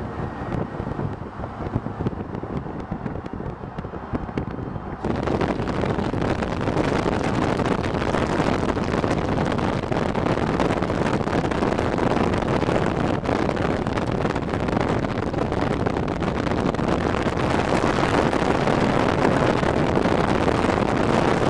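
Steady road and wind noise of a moving car, heard from inside; about five seconds in it jumps louder and hissier and stays so.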